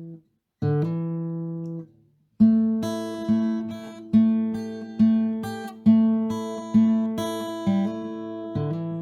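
Music: plucked guitar notes, each starting sharply and ringing out. After a short gap about two seconds in, the notes come steadily, about one a second.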